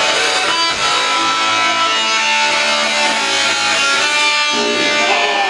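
A punk band playing live, with electric guitar strumming loud chords.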